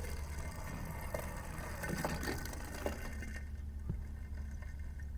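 Two die-cast toy cars rolling down a toy race track, a rattling run with clicks and knocks of the wheels on the track joints, that stops about three and a half seconds in. A steady low hum lies underneath.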